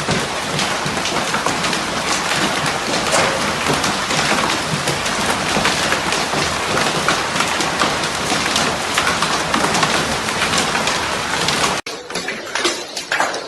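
Hail pelting down onto hard surfaces: a dense, steady clatter of countless stone impacts that cuts off abruptly near the end, followed by a few scattered knocks.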